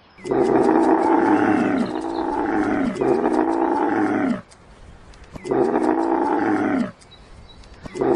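Dromedary camels bellowing: a run of long, loud, throaty calls, each falling in pitch, with short gaps between them.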